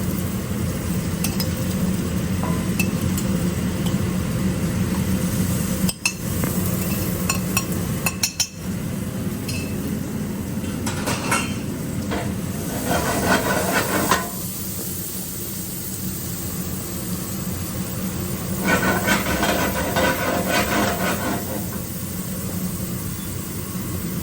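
Onions and garlic sizzling in olive oil in a black iron skillet. A utensil stirs and scrapes against the pan in two stretches, a little before halfway and again about three quarters of the way in.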